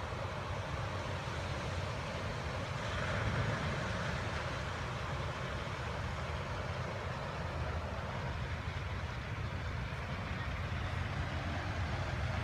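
Steady rushing noise of a large fountain's water jets, with a low rumble underneath; it swells slightly about three seconds in.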